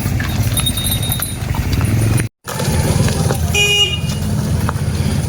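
A motor vehicle running with a steady low rumble, and a short horn toot a little past halfway. The sound drops out completely for a moment just before the toot.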